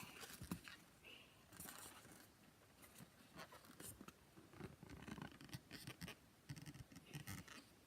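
Faint, scattered rubbing and scratching with small clicks as a latex balloon sculpture and a Sharpie marker are handled.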